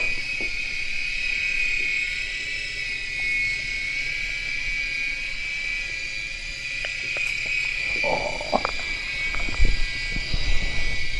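Airhogs Sharpshooter coaxial toy helicopter hovering, its small electric motors and rotors giving off a steady high-pitched whine. A few knocks come near the end.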